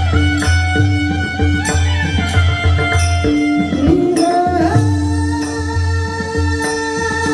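Devotional singing in a high voice over instrumental accompaniment, with held steady tones, a regular low drum beat and repeated metallic cymbal strikes.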